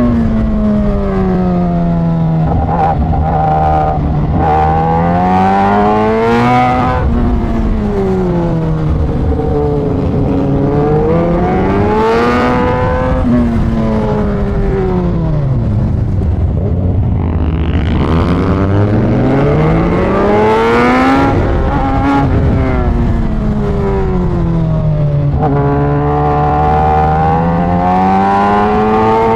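Kawasaki ZX-10R superbike's inline-four engine being ridden hard. Its pitch climbs under acceleration, drops sharply at each upshift and falls away more slowly several times while slowing.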